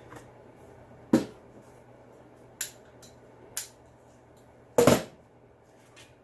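Hand tools and small parts handled and set down on a workbench: a few separate sharp metallic clinks and knocks, the loudest a quick double knock about five seconds in.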